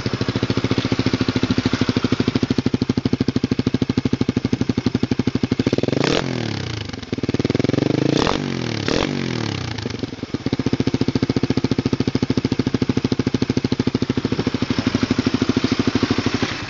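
Honda CBR150R's single-cylinder engine idling through its exhaust with an even pulsing beat. The throttle is blipped, rising and falling quickly, about six seconds in and twice more around eight and nine seconds, before the engine settles back to idle.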